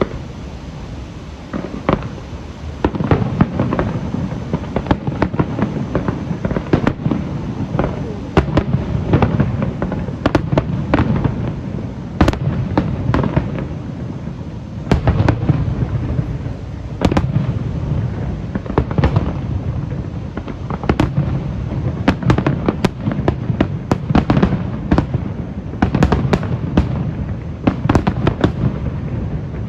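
Aerial fireworks going off in quick succession, a dense run of booming shell bursts and sharp cracks over a continuous low rumble.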